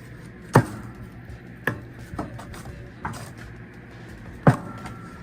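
Split firewood knocking as it is loaded into a wood stove's firebox: two loud wooden knocks, one about half a second in and one near the end, with a couple of lighter knocks between.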